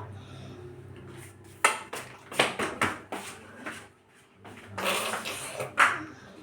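A spoon knocking and scraping against a dish as a baby feeds himself: a few sharp clinks among scrapes.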